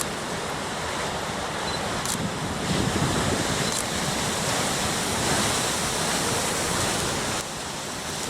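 Rough storm surf rushing and breaking, with wind buffeting the microphone. It swells louder about three seconds in and drops off abruptly shortly before the end.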